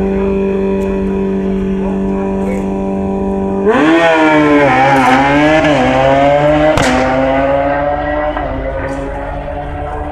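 Drag-racing motorcycle engine held at steady revs, then a much louder engine launching about four seconds in, its pitch wavering and then climbing as it accelerates down the strip before easing off near the end.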